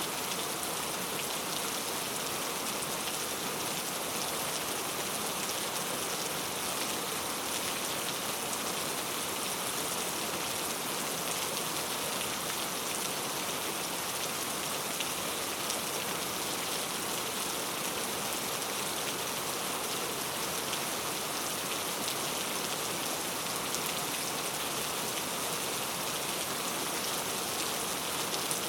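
Steady rain falling, a constant even hiss with fine scattered drop ticks.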